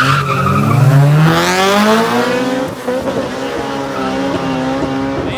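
Car tires squealing briefly, then a car engine accelerating hard, its pitch rising for about two seconds before leveling off and running steadily.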